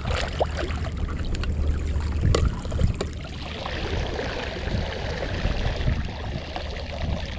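Wind rumbling on the microphone over lapping water, with a few sharp clicks in the first three seconds.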